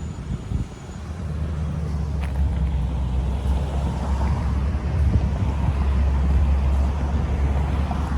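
Car engine idling with a steady low rumble that swells slightly about a second in; a faint click about two seconds in.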